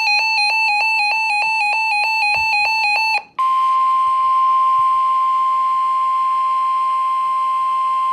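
Rapid electronic beeping, about six beeps a second, for about three seconds, then the NOAA Weather Radio warning alarm: one loud steady tone held for several seconds. The tone is the signal that a warning broadcast is about to be read.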